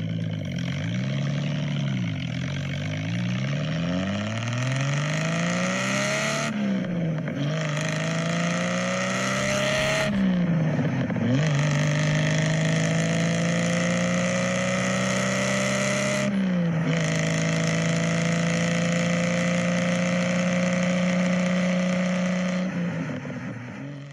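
Car engine revved up and down a few times, then accelerating through the gears: the pitch climbs, drops at gear changes about 6½, 10 and 16½ seconds in, then holds steady before fading out.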